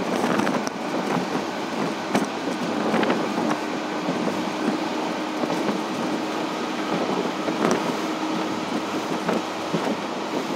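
Express train running along the track, heard from on board: a steady rolling rumble of wheels on rail with scattered sharp clicks, and a faint steady hum through the middle.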